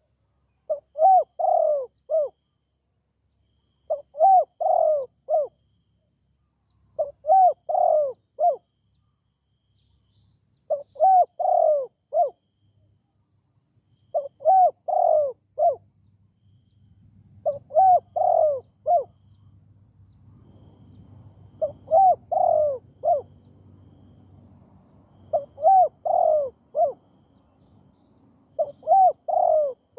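Spotted dove cooing: a phrase of several quick notes, repeated nine times, about every three and a half seconds. A faint low hum sits underneath during the second half.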